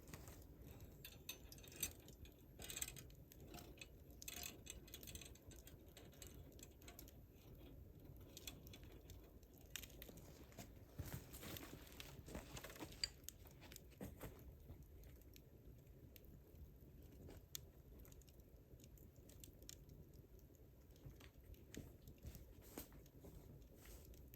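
Wood campfire burning quietly, the wood crackling with scattered small pops and snaps over a soft low rumble.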